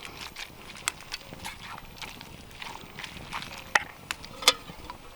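Pasta carbonara being stirred and tossed in a camp pan as the egg sauce turns creamy: soft, sticky, wet squelching, with a few sharp clicks scattered through.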